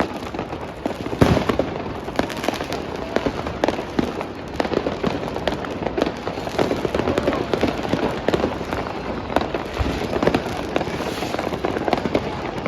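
Fireworks and firecrackers going off without pause, a dense crackle of many bangs at once, with one louder bang about a second in.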